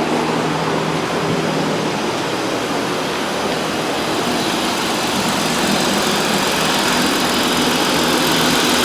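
Ford 3.7L V6, just put back together after an engine failure, idling steadily soon after its first start, purring like a kitten.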